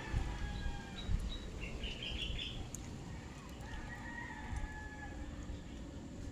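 Rooster crowing, one crow trailing off about a second in and another about four seconds in, with a short higher chirp between them, over a steady low rumble.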